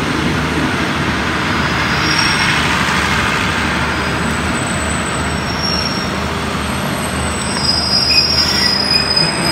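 Passenger train's coaches rolling along the station platform, a steady rumble with thin, high-pitched wheel squeal that grows clearer in the second half as the train pulls in to stop.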